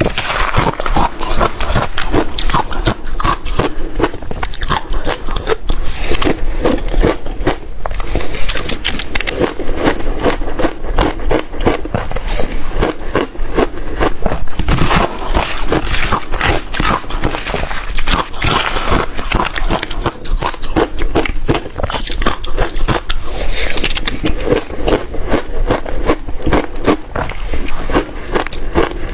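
A person biting and chewing ice up close, a dense, continuous run of crisp crunches and crackles with scraping.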